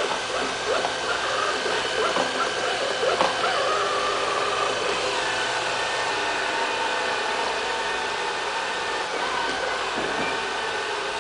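LL-A320 robot vacuum cleaner running: a steady motor and brush hum with several steady whining tones over a hiss.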